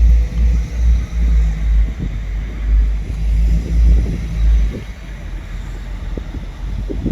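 A passing train's rumble with a steady hum, heavy and uneven in the bass, easing off about five seconds in.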